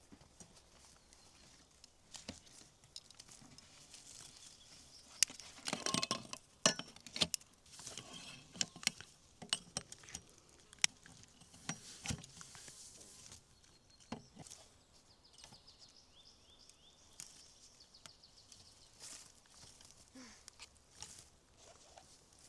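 Irregular snapping and rustling of movement over a forest floor, with twigs cracking; busiest about six seconds in.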